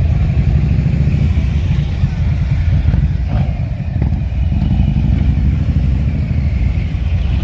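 Classic car's engine running at low speed through a loud exhaust: a deep, steady rumble.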